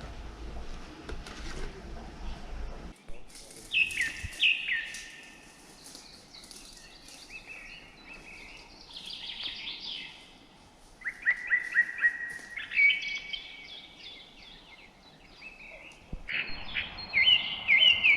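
Songbirds singing: phrase after phrase of quick chirping notes, some runs falling in pitch, beginning about three seconds in. A low rumble fills the first few seconds.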